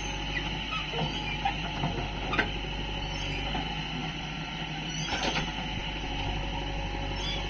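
Heavy diesel machinery running steadily, with short squeaks and knocks from its moving parts, several in the first two and a half seconds and a cluster about five seconds in.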